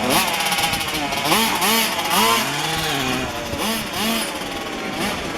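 Small two-stroke petrol engines of 1:5-scale RC cars racing, revving up and dropping back again and again as they accelerate and lift off, with more than one engine heard at once.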